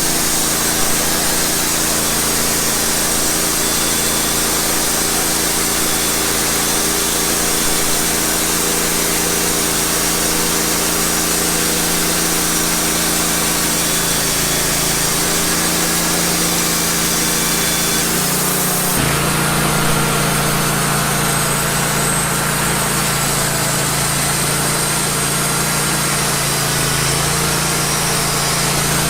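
Wood-Mizer portable band sawmill running, its engine steady while the band blade saws through a pine log. About two-thirds of the way through, the engine note changes abruptly.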